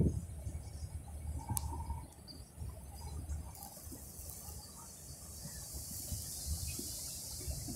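Freight train rolling past at a distance, a low uneven rumble, with a steady high insect chorus coming in about three and a half seconds in.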